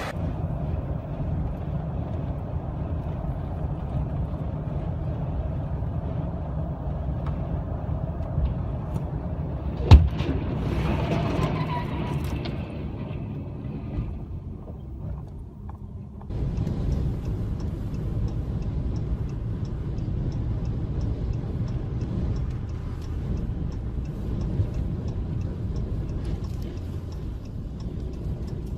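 Low, steady rumble of a heavy vehicle's engine, with one sharp bang about ten seconds in. After an abrupt change about sixteen seconds in, the rumble carries on with a fast, even ticking.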